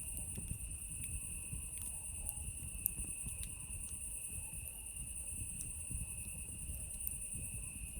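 Campfire crackling with sparse pops, the strongest about three seconds in, over a low steady rumble of the fire, against a steady, unbroken chorus of cicadas singing.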